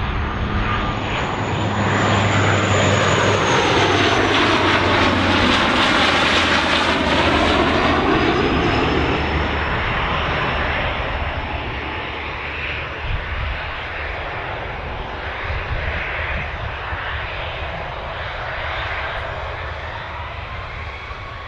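Airliner passing close by, its engine noise swelling to a peak a few seconds in and then slowly fading, with a high whine that falls in pitch as it goes past.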